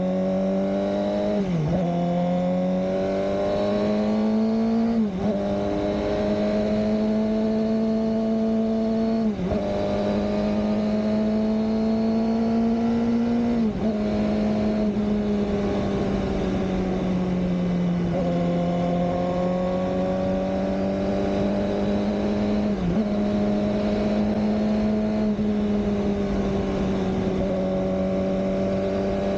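Suzuki GSX-R600 K7's inline-four engine running under way at a fairly steady pitch, with a brief dip and recovery in revs every four or five seconds.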